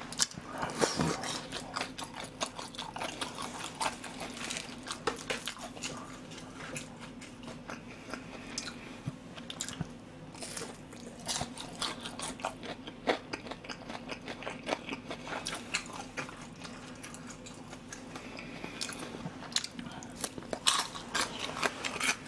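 Close-up chewing and crunching of battered, deep-fried pork in soy-sauce glaze (ganjang tangsuyuk): irregular crisp crunches and wet chewing, with a faint steady low hum beneath.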